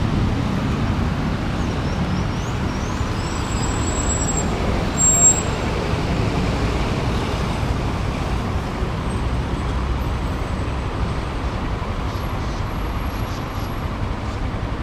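Motorcycle running while being ridden through city traffic, its engine rumbling steadily under the noise of road and passing traffic. There is a brief louder moment about five seconds in.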